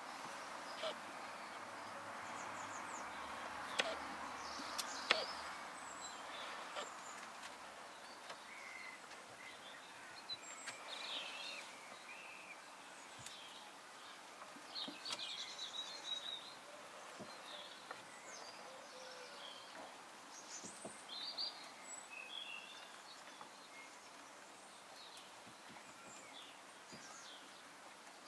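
Faint, irregular high-pitched squeaking from the camera itself, with a couple of sharp clicks a few seconds in.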